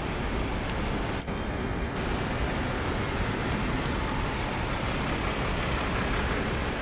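Steady rushing outdoor background noise, with a few faint, very high, short chirps in the first three seconds.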